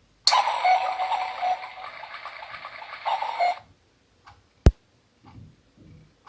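Electric cuckoo clock ticking faintly, broken by a loud, noisy sound lasting about three seconds, then one sharp click.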